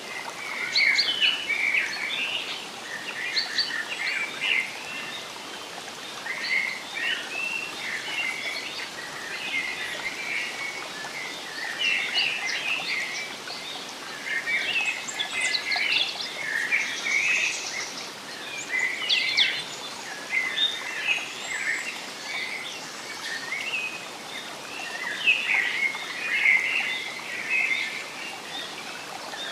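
Many small birds chirping and calling continuously in a dense, overlapping chorus of short high notes, over a steady faint hiss.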